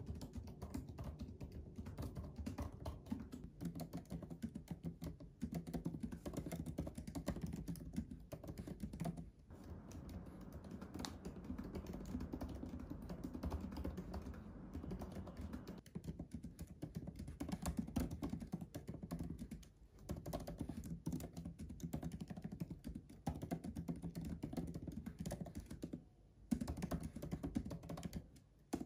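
Continuous typing on a MacBook laptop keyboard: a steady stream of quick key clicks, broken by a short pause a couple of seconds before the end.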